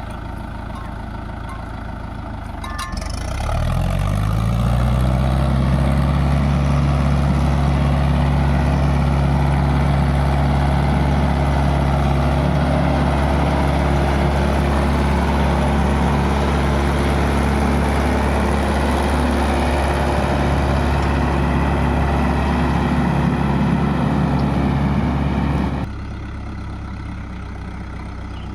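Mahindra Yuvo Tech tractor's diesel engine revving up about three seconds in and held at high revs under load, straining to pull itself and a trolley out of mud, then dropping back abruptly near the end.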